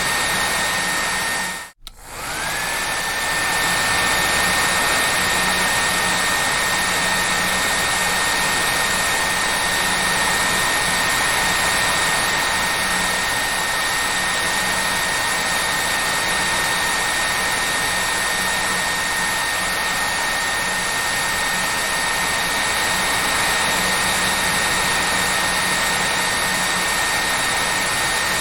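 Hair dryer running steadily, a rushing blow with a high motor whine. About two seconds in it cuts out for an instant, then comes back with the whine rising to pitch as the motor spins up again.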